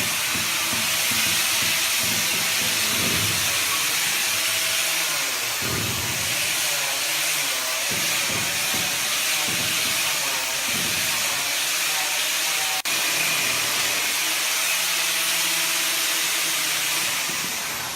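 Steady, loud rushing hiss of air, broken off for an instant about thirteen seconds in.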